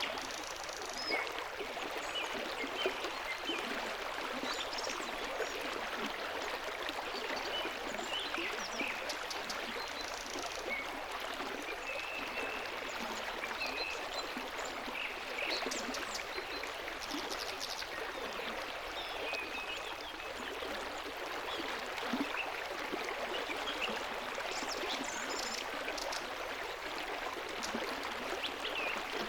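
A stream of running water flowing steadily, with small scattered splashes.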